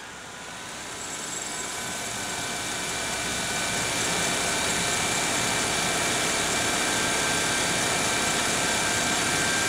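2002 Saturn SL2's engine running just after start-up with a very loud squeal, swelling over the first few seconds and then holding steady.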